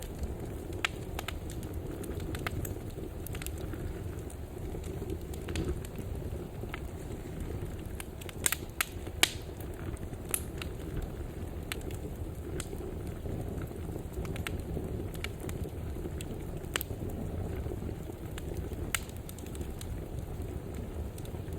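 Fire burning in a fireplace: a steady low rumble with scattered crackles and sharp pops, and a quick run of louder pops a little before halfway.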